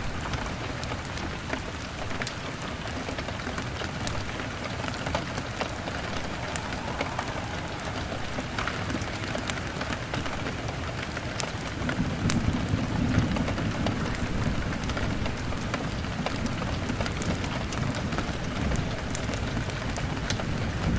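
Heavy rain beating on a window pane, a steady hiss full of sharp ticks, with a log fire crackling. A little past halfway a low rumble comes in and carries on.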